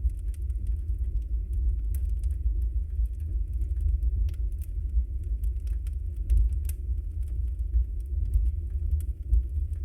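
Wood fire burning in a fireplace: a steady low rumble of the flames with frequent small, sharp crackles and pops of the burning logs.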